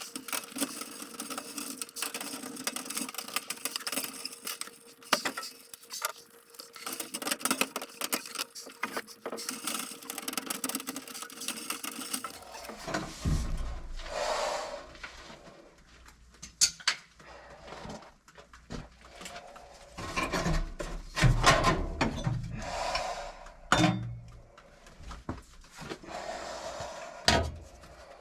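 Installation work noises. For about twelve seconds there is a dense, steady rattling with a faint hum. It then gives way to scattered knocks, thumps and scraping as parts and tools are handled.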